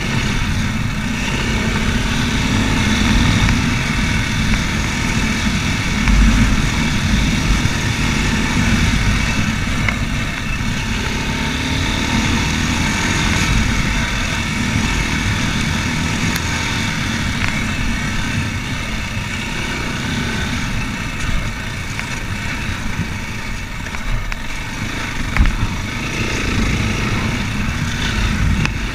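Racer Panther 300 enduro motorcycle running steadily while being ridden, the engine sound fairly even with small swells in loudness.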